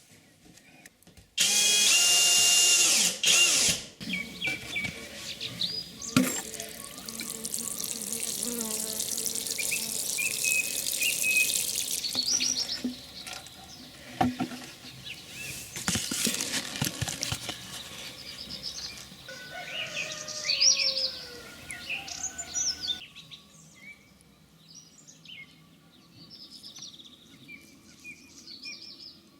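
Birds singing, many short chirps and trills, over a loud rushing hiss that starts suddenly about a second and a half in and stops abruptly a few seconds before the end, leaving the birdsong over a quieter background.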